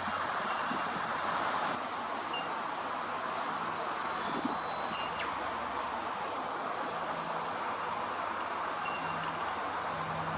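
Steady outdoor rushing noise, with a few faint, short, high chirps and a faint low hum.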